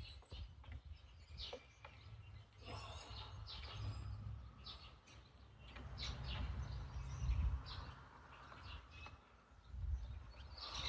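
Low handling rumbles and small knocks of hands working a Stihl chainsaw's carburetor and fuel line into place, loudest about seven seconds in, with birds chirping in the background.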